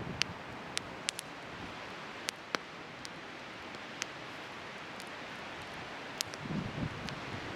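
Wood bonfire crackling: sharp pops every second or so over a steady hiss, with wind gusting on the microphone near the end.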